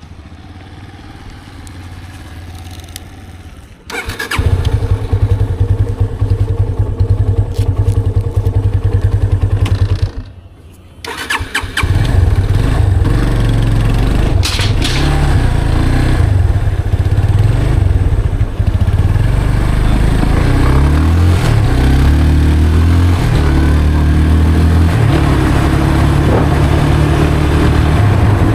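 Yamaha FZ 25's 249cc single-cylinder engine through its stock exhaust: quiet at first, then loud engine sound sets in suddenly about four seconds in. It breaks off for about a second and a half near ten seconds, then resumes with the revs rising and falling.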